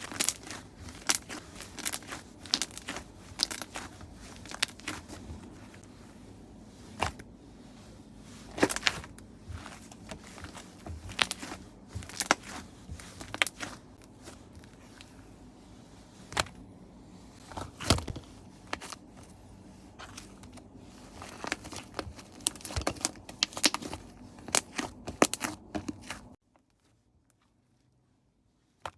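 Slime being squeezed and stretched by hand, making a dense run of irregular sharp crackles and pops. It stops abruptly about 26 seconds in, leaving near silence.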